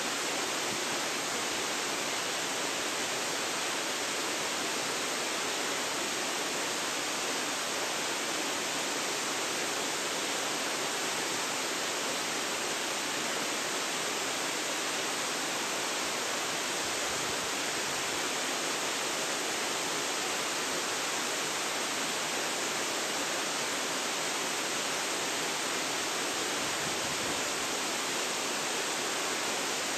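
Waterfall pouring steadily, an even rushing hiss of falling water with no pauses.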